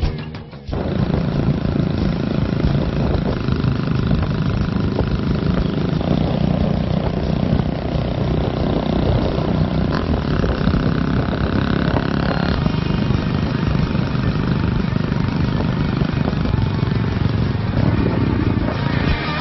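Classic motorcycle engines running with a steady, rough rumble. A steady higher tone is heard for about two seconds midway.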